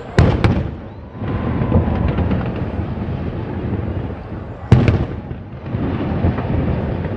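Fireworks display: two sharp shell bursts right at the start, then dense crackling pops, and another big boom about five seconds in.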